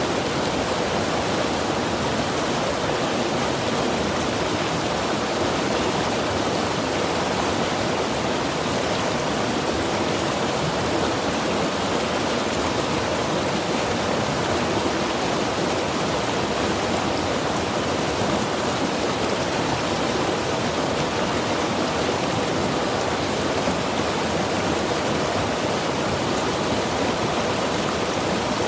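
Mountain river rushing steadily over rocks, a constant, even roar of flowing water.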